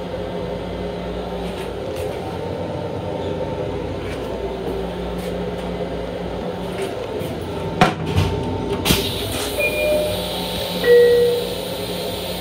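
Steady hum of an M7 commuter railcar's onboard equipment. About eight seconds in comes a sharp knock, then a rushing hiss sets in, with two short beeps a second apart.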